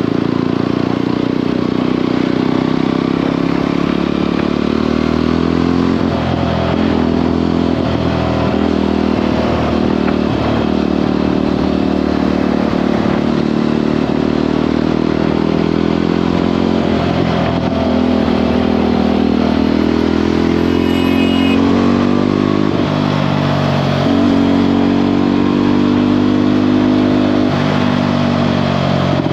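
Jawa 42 motorcycle's single-cylinder engine running steadily at cruising speed, its note dipping briefly a few times, under a steady rush of wind and road noise.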